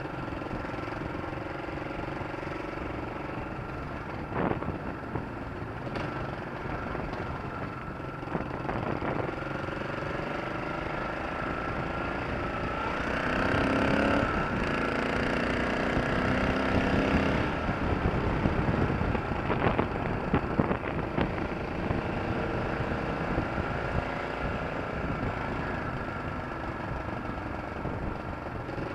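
An engine running steadily under a thin, steady whine, with a few sharp knocks. It gets louder about halfway through, with shifting pitch, then settles again.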